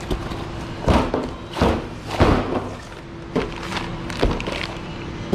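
Replacement suspension control arms knocking and thudding as they are handled and set down out of a parts box, about five separate knocks over a faint steady hum.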